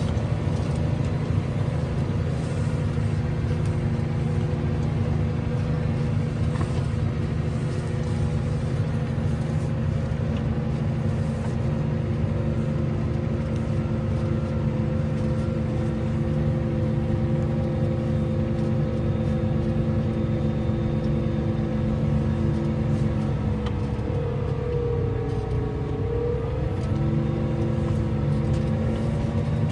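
Tractor engine running steadily at a constant speed. About three-quarters of the way through, the engine note sags for a couple of seconds and then recovers.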